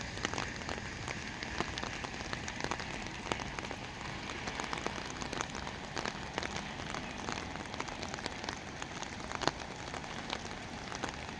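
Moderate rain falling: a steady hiss scattered with many individual drops ticking as they land.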